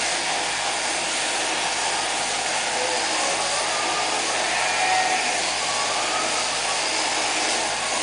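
Electric sheep-shearing handpiece running with a steady whirring hiss.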